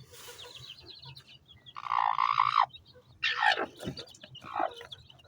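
A broody hen calling loudly three times, defending her chicks, with faint high chick peeps in between.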